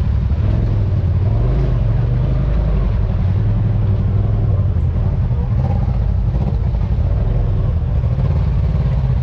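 Side-by-side UTV engine running steadily while the machine drives along the trail, a continuous low rumble heard onboard.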